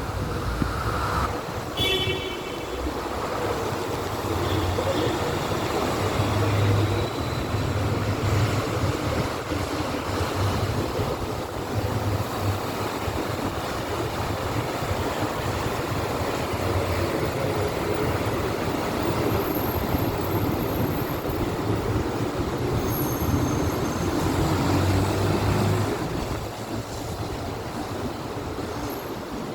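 Strong typhoon wind, a steady rushing noise with irregular low rumbles where gusts buffet the microphone.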